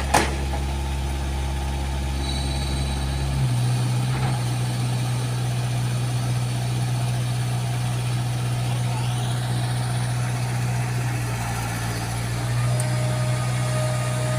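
Backhoe's diesel engine running steadily under load as it strains to climb onto a truck bed without a ramp, its pitch shifting about three seconds in and again near the end. A faint rising whine comes in about two thirds of the way through.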